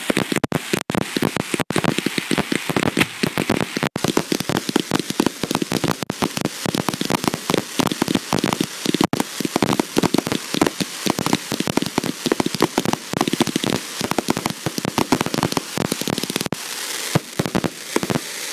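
Aerial fireworks barrage: a dense, rapid stream of crackling and popping reports from bursting shells and crackling stars. Near the end the crackle gives way to a steadier hiss.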